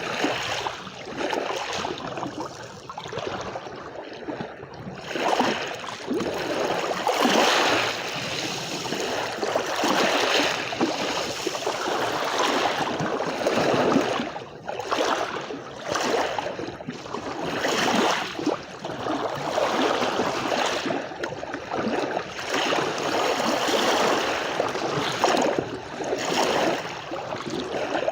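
Small sea waves washing onto a beach, the wash swelling and easing every couple of seconds.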